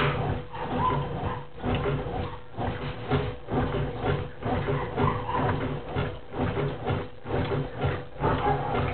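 Brastemp Clean 10 kg top-loading washing machine agitating in its rinse cycle: the agitator churns the water and laundry back and forth in rhythmic surges of about one a second, over a steady hum.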